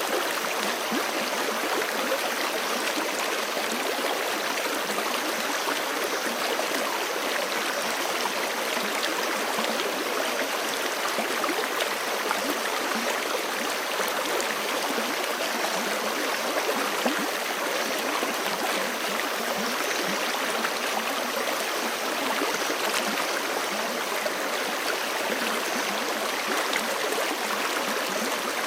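Forest creek flowing steadily: an even, unbroken rush of running water, mostly in the middle and upper range with little deep rumble.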